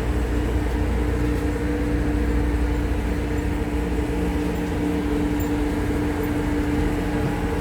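Steady low mechanical drone with a constant hum, heard from inside a car on a ferry's vehicle deck.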